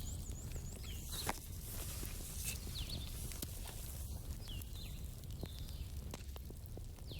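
Campfire burning: wood crackling with scattered sharp pops, one louder pop about a second in, over a steady low rumble. Short high chirping calls come and go above the fire.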